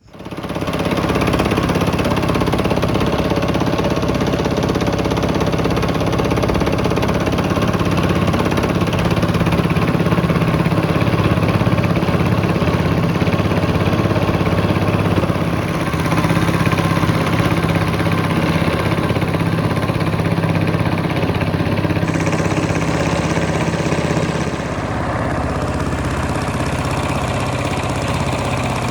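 An engine running steadily at an even speed, dropping slightly in level about 24 seconds in.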